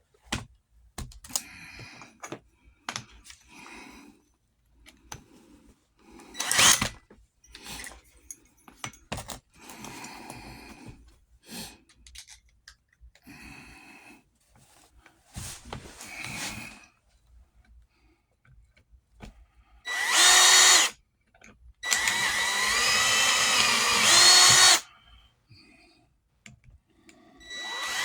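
Small tools and parts being handled, with scattered clicks and rustles. Then, over the last eight seconds, an electric drill runs in three short bursts with its motor pitch wavering, opening up holes for larger fasteners.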